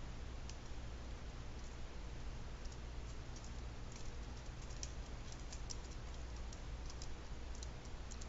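Faint, irregular light clicks and ticks, clustered through the middle and latter part, over a steady hiss and low hum.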